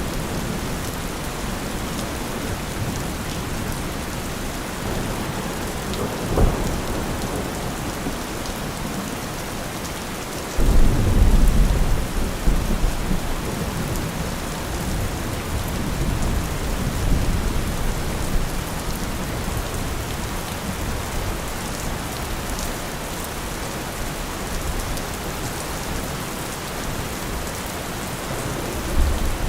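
Steady rain falling, with thunder: a short low thud about six seconds in, then a sudden loud low rumble a third of the way through that rolls on for several seconds, and another rumble starting near the end.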